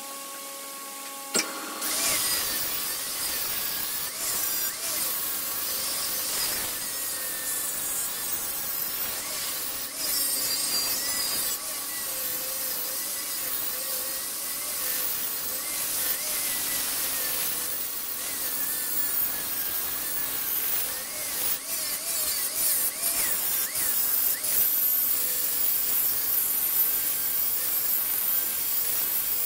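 A turning tool cutting a spinning wood blank on a wood lathe, a continuous scraping and shaving sound with a wavering pitch. It starts about two seconds in, after a single sharp tap.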